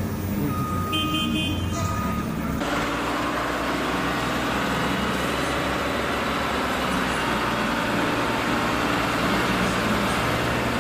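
A heavy vehicle's diesel engine running, with a reversing alarm beeping twice in the first two seconds. About two and a half seconds in, the sound changes abruptly to another steady, noisy engine run.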